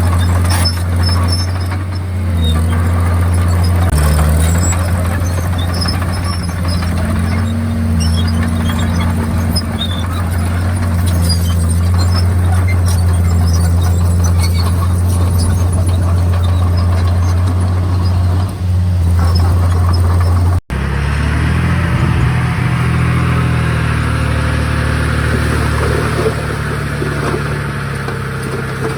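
Komatsu D51PX bulldozer's diesel engine running under load, a steady low drone whose pitch shifts now and then, with scattered small squeaks and clicks. About two-thirds of the way through, the sound cuts out for an instant and the machine sound resumes with a slightly different tone.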